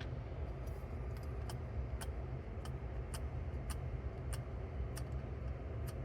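Light, evenly spaced ticking, about three clicks every two seconds, over a steady low hum.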